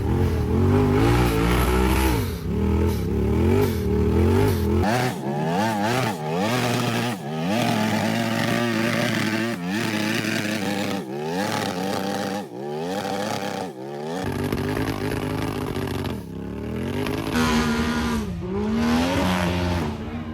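Off-road vehicle engines revving hard, again and again, the pitch climbing and falling every second or two.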